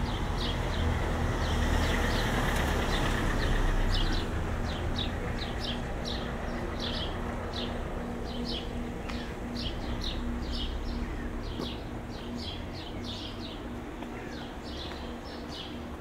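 Small birds chirping rapidly and repeatedly, over the low rumble of a passing vehicle that fades away about four seconds in. A steady low hum runs beneath.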